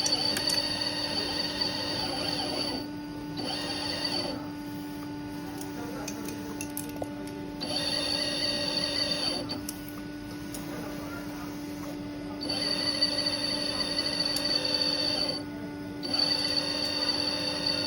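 Hydraulic pump of a 1/14-scale RC hydraulic truck whining, cutting in and out in five stretches of about one to three seconds, over a steady lower hum.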